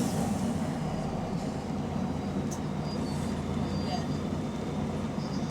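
Bus diesel engine running steadily, heard from inside the bus, with a low drone from an exhaust leak.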